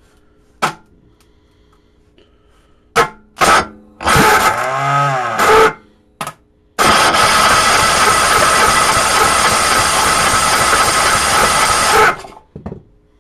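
Electric starter cranking a cold single-cylinder 10 hp Tecumseh engine on full choke, without the engine catching. There are a few short bursts first, then a crank of about a second and a half that rises and falls in pitch, then one long crank of about five seconds that cuts off suddenly. The starter is really noisy and loud.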